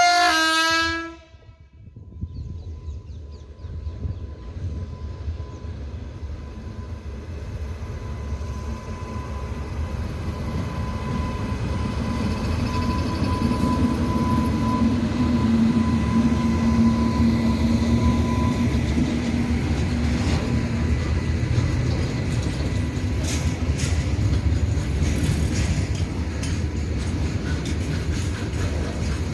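Indian Railways WAG9 electric locomotive's horn sounding once for about a second, then the rumble of a slow goods train of loaded covered wagons building as it draws near and runs past. A steady whine comes through in the middle, and wheels click over rail joints near the end.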